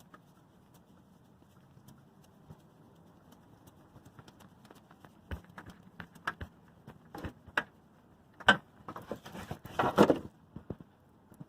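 Scattered clicks and knocks as a spin-on oil filter and its clamp-type filter wrench are worked off the engine and handled. The first half is quiet; the clicks start about halfway, and the loudest knocks come near the end.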